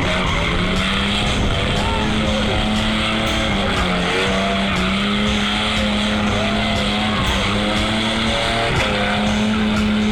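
Car engine held at high revs while its tyres spin and squeal. The engine note holds steady, dipping briefly about halfway through and again near the end.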